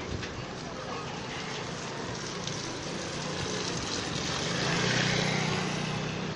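A motor vehicle's engine hum swelling as it passes close, loudest about five seconds in, over a steady street hiss.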